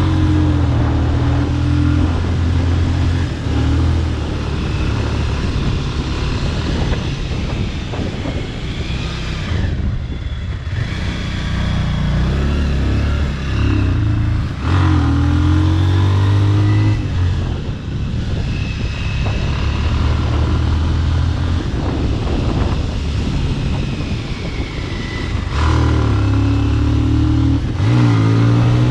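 Bajaj Pulsar RS200 motorcycle with a modified exhaust, ridden on the road: its single-cylinder engine note rises and falls several times with throttle and gear changes, over wind and road noise.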